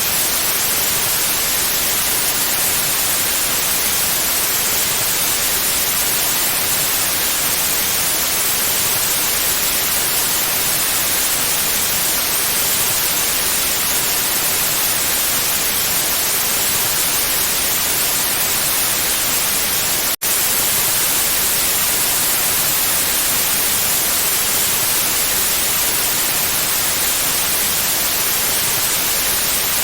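White noise: a steady, even hiss, broken once by a split-second dropout about two-thirds of the way through.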